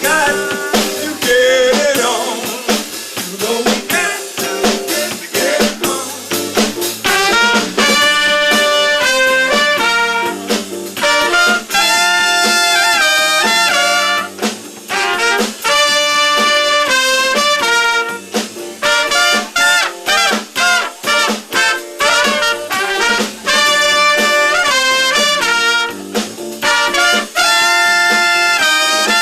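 Live band music: a horn section of trumpet, trombone and saxophone plays held chords in repeated phrases over a drum kit.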